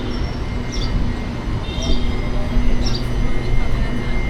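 Steady hum and low rumble of a standing electric passenger train, with short high chirps recurring about once a second.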